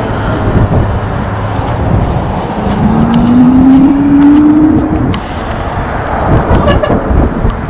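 Steady road and wind noise with traffic, and a motor vehicle's engine rising gently in pitch from about three to five seconds in.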